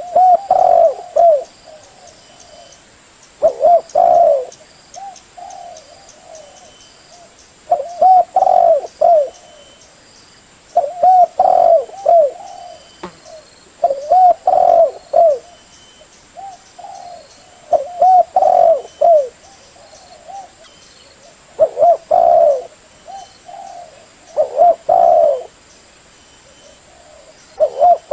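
Spotted dove cooing: a short phrase of a few throaty coos repeated about every three seconds, with fainter coos between the phrases. It is a tekukur lure call.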